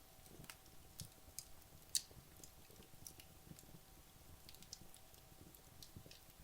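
Wood logs burning in a fireplace, giving faint, scattered crackles and small pops, the sharpest about two seconds in.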